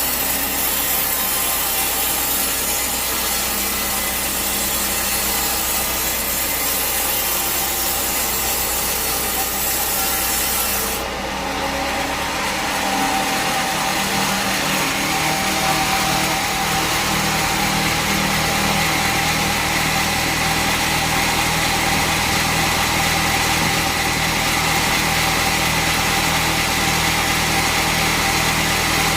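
Bandsaw sawmill running and cutting through a teak log: a steady rasping saw noise over the mill's motor. About eleven seconds in the sound shifts, the top of the hiss falling away and a steadier hum with a held tone coming up.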